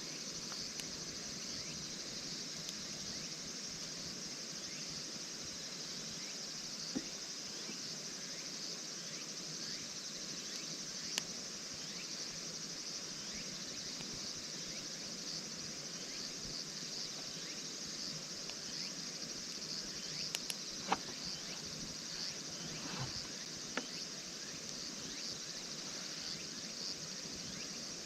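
Insects chirping steadily in a high, pulsing chorus, with a few scattered sharp clicks, the loudest a little after the middle.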